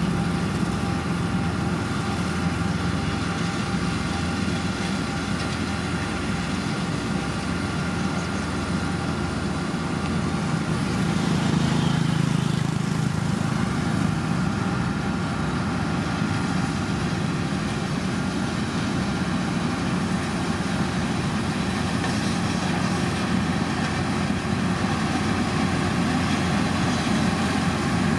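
Motor grader's diesel engine running steadily as it works gravel, swelling a little louder about twelve seconds in.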